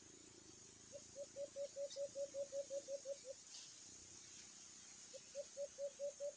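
A bird's low hooting note repeated rapidly at about five notes a second, in two runs: one from about a second in to just past three seconds, another starting about five seconds in. A steady high insect buzz runs underneath.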